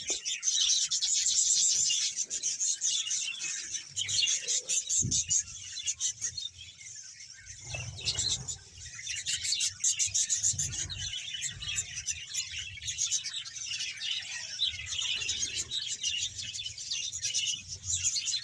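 A large colony of budgerigars chattering and chirping all at once, a dense unbroken warble of many birds.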